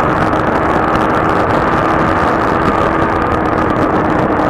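Motorcycle cruising at a steady highway speed, its engine holding one even note under a thick rush of wind noise on the rider's microphone.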